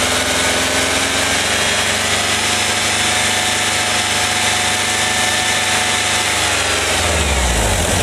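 1985 VW Vanagon's 1.9-litre water-cooled flat-four (wasserboxer) engine held at a steady raised speed, then dropping back toward idle about seven seconds in. It revs cleanly because the vacuum advance is disconnected; with it connected, the engine dies when the throttle is opened.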